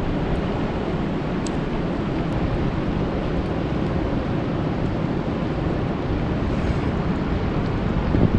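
Rain falling on a lake: a steady, dense hiss with a deep rumble beneath and a few faint ticks of single drops.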